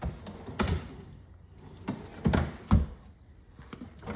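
A handful of irregular wooden knocks and thuds, the loudest two about half a second apart a little past two seconds in.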